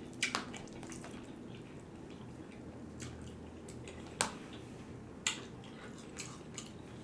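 Close-miked eating: quiet chewing with a few short, sharp, wet mouth clicks, the clearest about a quarter second in, a little after four seconds and a little after five seconds.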